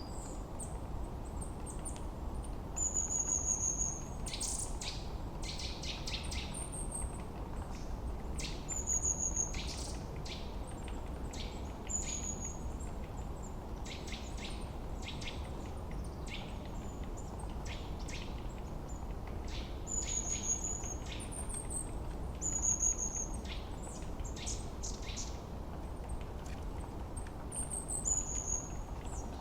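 Forest birdsong: several birds calling, with short high whistles sliding down in pitch every few seconds and bursts of quick chirps, over a steady low rushing background.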